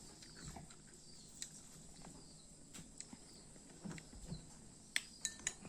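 Quiet stretch with a few faint, scattered clicks and taps, the loudest small cluster near the end.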